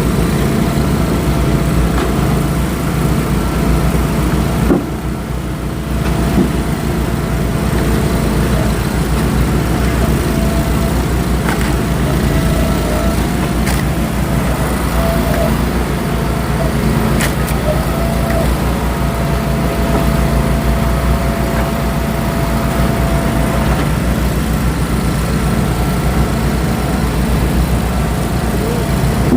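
Eastonmade Axis firewood processor running steadily, its engine and hydraulics humming with a constant whine, with a few sharp knocks of wood along the way.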